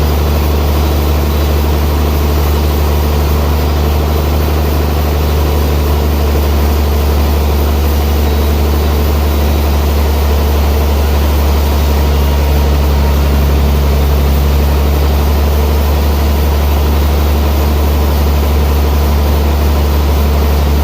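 Sawmill machinery running steadily with a heavy, constant low hum; one of its lower tones shifts slightly about twelve seconds in.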